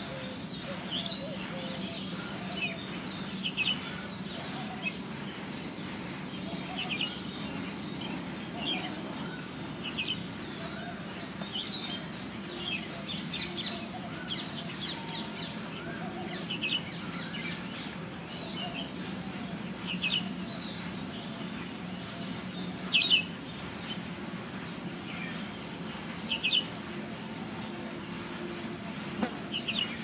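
Birds chirping: short, high chirps repeated every second or two, with a brief flurry of quicker, higher notes about halfway through, over a steady low background hum.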